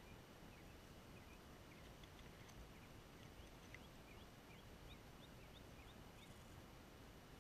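Near silence: faint steady hiss with a scatter of small, high rising chirps from birds, a few each second.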